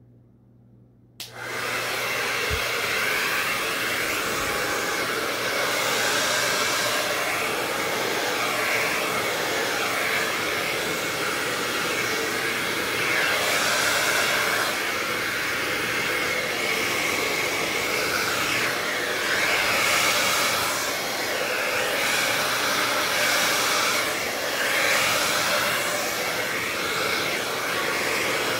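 Hair dryer switched on about a second in and blowing steadily, pushing poured acrylic paint across a canvas in a Dutch pour; its rushing air swells and fades in waves.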